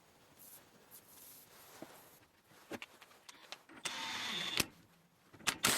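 Metal parts of a hydraulic cylinder handled in the hands while the piston goes back onto the rod: scattered sharp clicks and knocks, with two short stretches of scraping, rushing noise, the last one ending abruptly.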